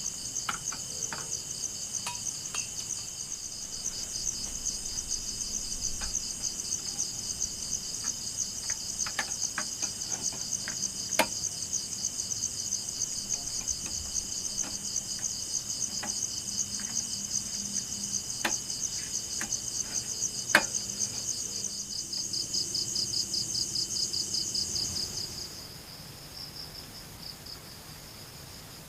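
Insect chorus trilling in fast, even pulses on a high pitch. Scattered light clicks and knocks sound over it. About 25 seconds in, the loudest trill stops and a fainter one carries on.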